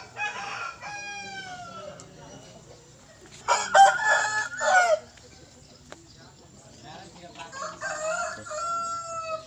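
Rooster crowing three times: a long crow trailing off at the start, a loud close crow about three and a half seconds in, and another long crow with a drawn-out falling end near the end.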